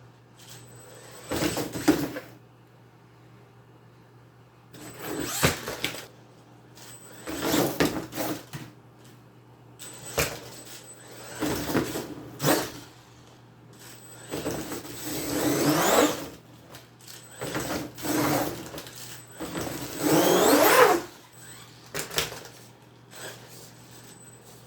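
Brushless electric RC monster truck driven in short throttle bursts, about eight in all, the motor whining up in pitch with each burst as the tyres spin.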